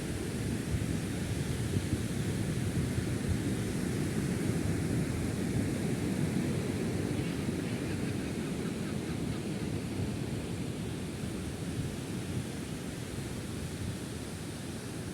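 Wind buffeting the microphone outdoors: a steady low rumbling noise that eases slightly near the end.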